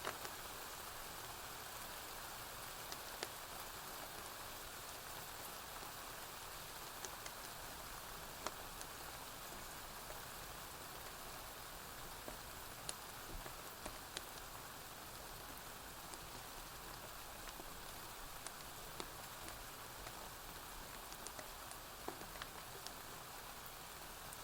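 Steady rain falling on a porch roof, an even hiss, with scattered sharp clicks and pops throughout.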